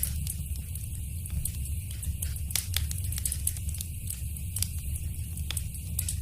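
Wood fire crackling, with scattered sharp pops over a steady low rumble; a few louder pops come about two and a half and five and a half seconds in.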